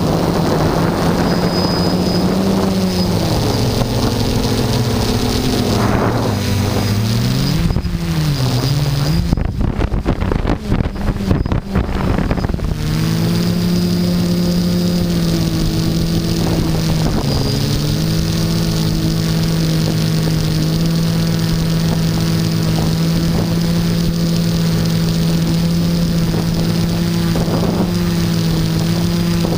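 Quadcopter's electric motors and propellers humming in flight, the pitch dipping and rising as the motors work against the wind. From about nine to thirteen seconds in, gusty wind buffeting on the microphone swamps the hum, then the hum settles to a steady pitch.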